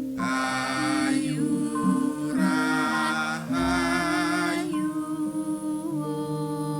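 Javanese gamelan ensemble playing, its metallophones ringing held notes, with a singer's voice wavering in vibrato over it.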